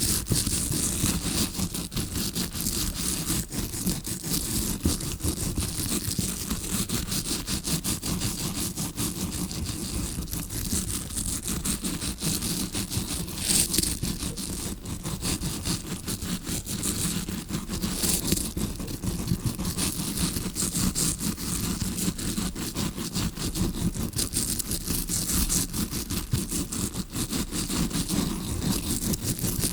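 Close-miked tawashi scrubbing-brush bristles scratching rapidly and continuously, a fake ear-cleaning sound as if heard from inside the ear. Dense, fine scratching at an even level.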